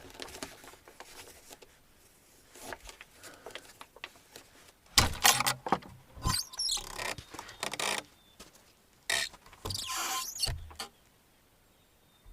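Bursts of rustling and scraping with a few knocks, as of things being handled, from about five to eleven seconds in.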